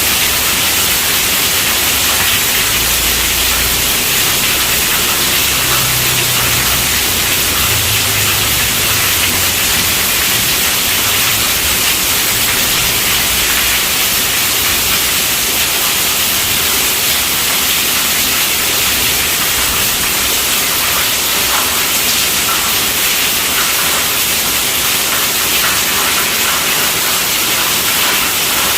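Heavy rain falling steadily on a tent roof: a dense, even hiss with no let-up.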